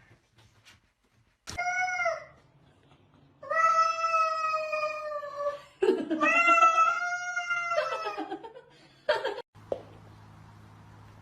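A cat yowling: one short meow, then two long, drawn-out caterwauling calls back to back. Near the end a brief rustle, then a low steady hum.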